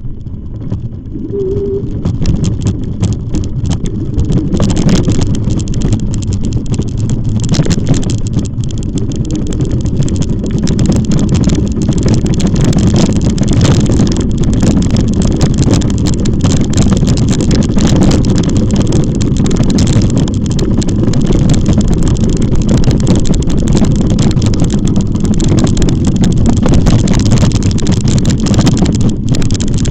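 Wind buffeting the microphone of a camera on a moving e-bike: a loud, steady rumble.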